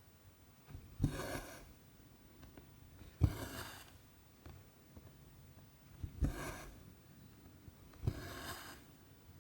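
Cross-stitch needle piercing 14-count Aida cloth and cotton thread being drawn through, four times: each a sharp tick followed by a swish of about half a second.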